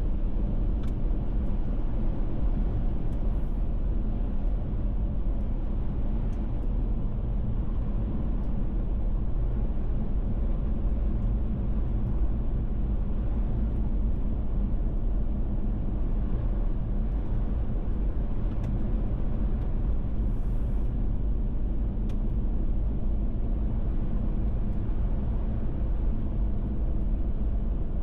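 Steady road and engine rumble of a Lexus 4x4 driving along, heard from inside the cabin.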